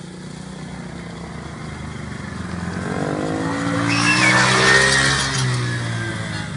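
Small engine of a youth off-road vehicle approaching and passing close by: it grows louder to a peak about five seconds in, its pitch drops as it goes past, then it fades.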